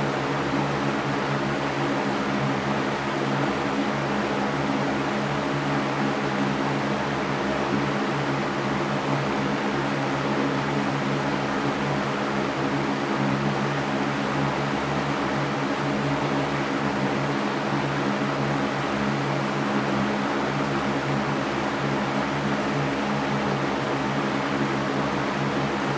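Electric fan running steadily: an even whooshing noise with a low motor and blade hum beneath it, unchanging throughout.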